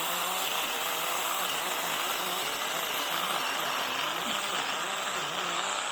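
Small battery-powered 6-inch mini chainsaw running steadily under load, its motor hum wavering and dipping as the chain cuts through wood.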